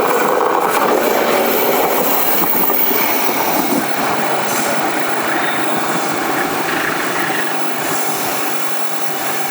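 Train passing close by on the track, a steady loud running noise of wheels on rails that eases slightly near the end.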